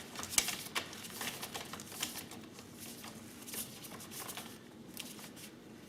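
Light, irregular clicks and scrapes of an Allen key and spanner working the handlebar clamp bolts on a pit bike as they are tightened.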